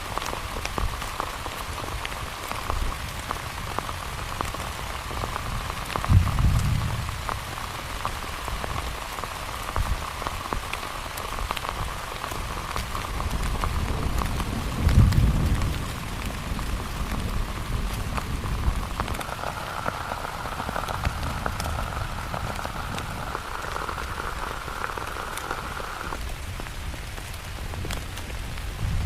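Heavy rain falling steadily, a dense patter of drops. Twice, about 6 and 15 seconds in, a brief low rumble swells and fades.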